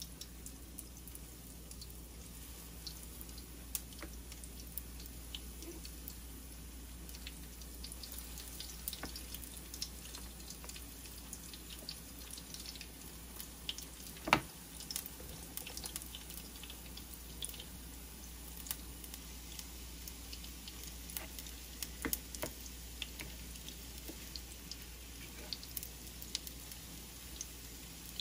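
Battered asparagus spears frying in shallow oil in a pan, with a steady scatter of small crackles and pops. A single sharp clink about halfway through stands out as the loudest sound.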